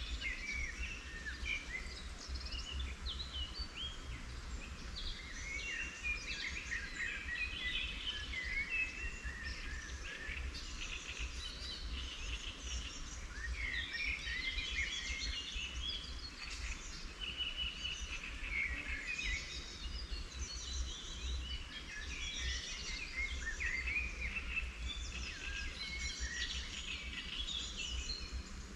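Several wild songbirds singing and chirping at once, with overlapping calls, short glides and rapid trilled runs of notes, over a steady low rumble.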